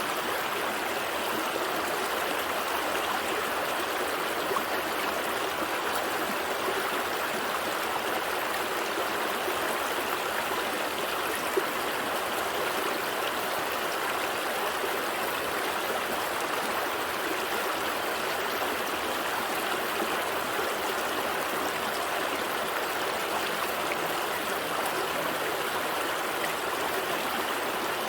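Gentle stream, water flowing and babbling steadily over rocks.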